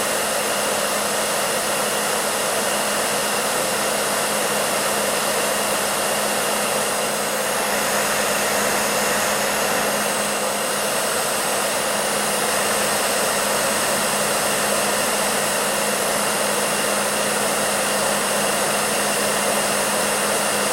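Hair dryer running steadily: an even rushing airflow with a steady motor hum underneath.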